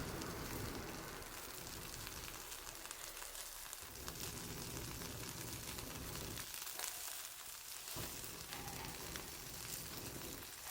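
Wood bonfire crackling and hissing steadily, with many small pops.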